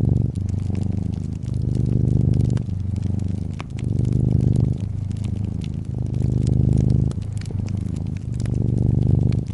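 A brown tabby cat purring close up. The purr swells and dips with each in- and out-breath, about once a second or a little slower. Small sharp pops of a crackling wood fire sound over it.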